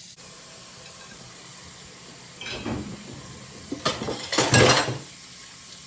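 Dishes and cutlery clinking and clattering as they are handled for washing, a few separate clatters with the loudest about four and a half seconds in, over a faint steady hiss.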